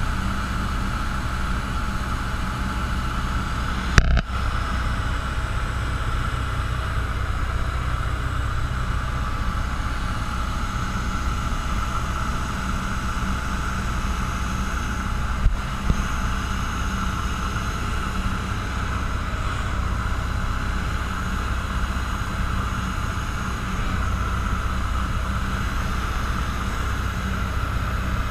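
Cessna 172's piston engine and propeller droning steadily in the cabin in flight, with two short clicks, one about four seconds in and one near the middle.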